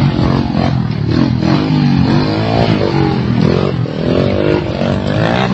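An engine revving, its pitch rising and falling several times.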